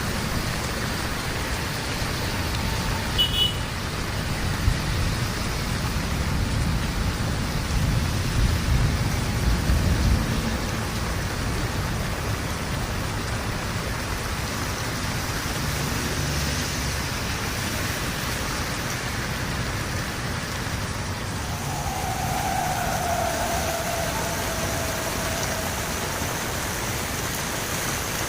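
Steady rain falling. A low rumble swells and fades about six to ten seconds in, and a tone slides down in pitch a little past the twenty-second mark.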